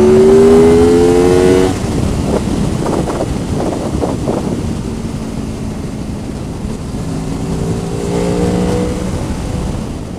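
Honda VFR800 VTEC motorcycle's V4 engine under way: it pulls with rising pitch, the revs drop off sharply a couple of seconds in as the throttle is shut, then after a stretch of rushing noise it pulls steadily again near the end.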